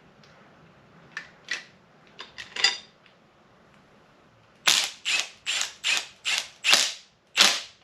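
Ratchet wrench clicking in a quick even series of about seven strokes as the rocker arm bolts on an LS V8 cylinder head are run down snug, after a few light metal clinks.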